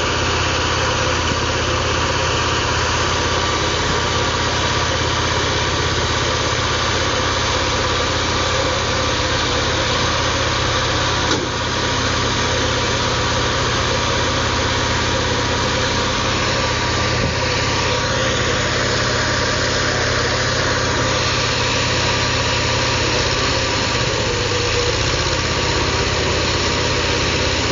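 A tractor engine idling steadily, with one brief dip about eleven seconds in.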